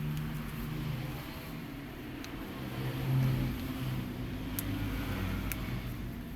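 A motor vehicle engine running steadily, its pitch shifting a little, with two sharp clicks near the end.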